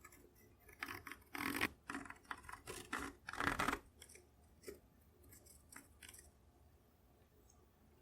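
A marking tool scratching along the edge of a metal trigger guard, tracing its outline onto a walnut stock blank: a run of short scratchy strokes over the first four seconds, then a few faint ticks, then quiet.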